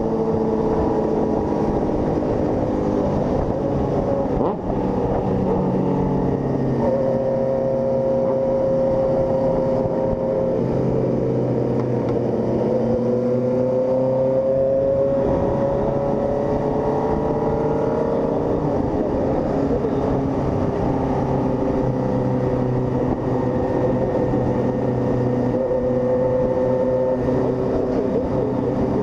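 Single-cylinder Honda CG 160 Fan motorcycle engine running under way, its pitch slowly rising and falling with speed, with a brief drop about four and a half seconds in.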